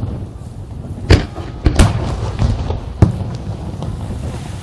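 Fireworks shells bursting in the sky: four sharp bangs, two of them close together near the middle, over a continuous low rumble of echoing explosions.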